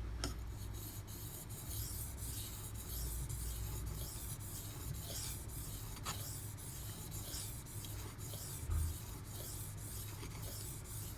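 D2 steel blade of a Brous Bionic XL knife being stroked back and forth by hand across a sharpening stone: a run of short, repeated scraping strokes, over a steady low hum.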